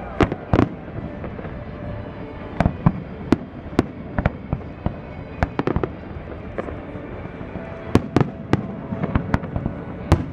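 Fireworks display: aerial shells bursting in an irregular string of sharp bangs, more than a dozen, over a continuous rumble and crackle of the show.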